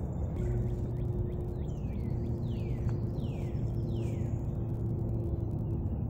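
Steady low outdoor rumble with a thin constant hum, over which a bird sings a run of four or five falling whistled notes, each sliding downward, spaced under a second apart.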